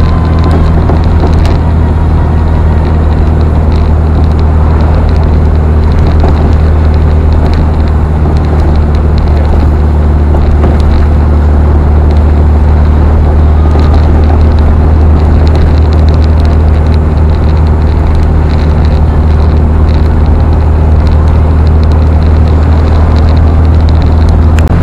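Volkswagen Thing's air-cooled flat-four engine droning steadily at cruising speed, mixed with tyre noise on a wet road, heard loud from inside the cabin.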